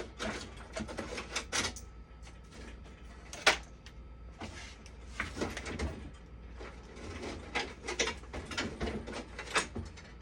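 Irregular clicks, knocks and scrapes of hard parts being handled while working on a machine, with one sharp click about three and a half seconds in, over a steady low hum.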